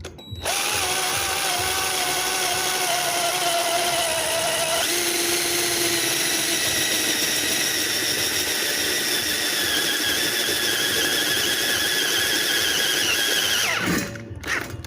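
Power drill boring through metal with a freshly sharpened twist bit, enlarging an existing hole. A steady whine starts just after the beginning, steps up sharply in pitch about five seconds in, sags slowly, and stops shortly before the end as the bit breaks through.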